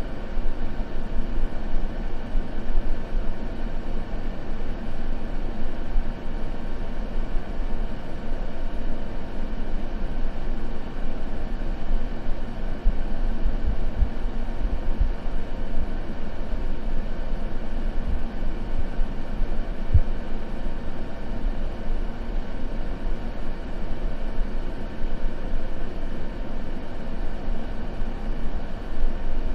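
Continuous noise for sleep, steady and unchanging, deep and muffled rather than hissy.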